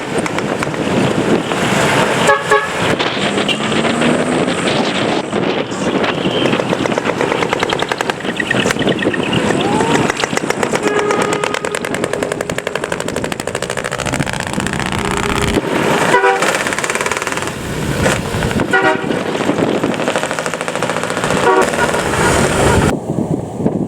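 Dekotora decorated trucks' engines running loudly as the trucks drive out, with short horn toots about two seconds in and three more in the last eight seconds.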